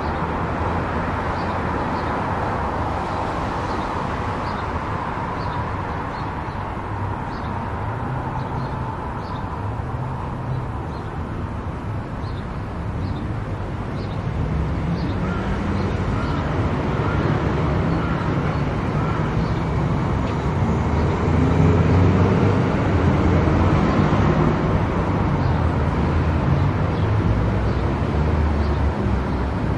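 Car driving on a highway: steady road and engine noise that grows louder about halfway through, with faint regular ticks.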